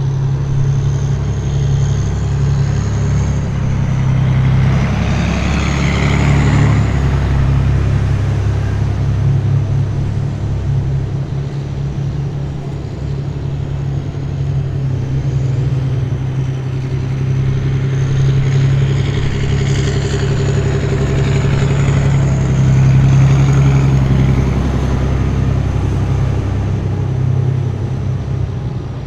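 Column of heavy military vehicles driving past, their engines running with a steady low drone. Two vehicles pass louder, about six and twenty seconds in, each bringing a high whine that rises and falls as it goes by.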